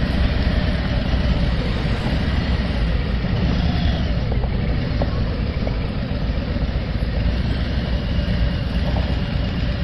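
Harley-Davidson motorcycle engine running with a steady low rumble.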